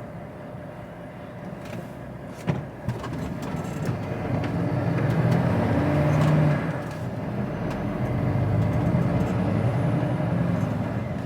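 Heavy goods vehicle's diesel engine heard from inside the cab, pulling away and building up about halfway through, then easing off suddenly and running on steadily. A single sharp click comes about two and a half seconds in.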